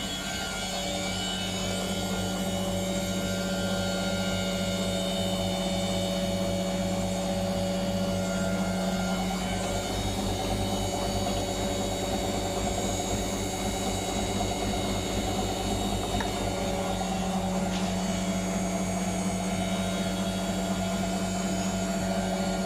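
Whirlpool FL 5065 washing machine spinning steadily at 600 rpm: a constant motor whine over a low hum.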